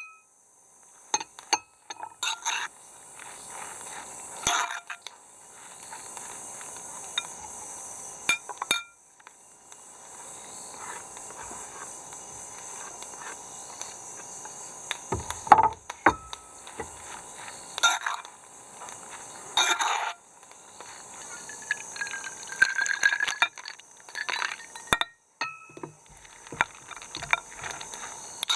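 Glassware clinking and knocking, a series of separate sharp clinks and knocks at irregular intervals, over a steady high background drone.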